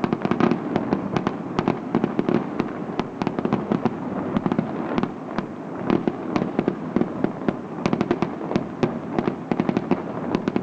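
Fireworks display: a dense, unbroken stream of crackling pops and bangs, many a second.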